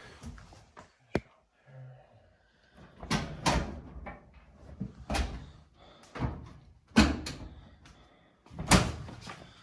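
Knocks and thuds from an LG dryer's cabinet parts being handled during repair: a sharp click about a second in, then a run of heavy knocks, the loudest two near the end.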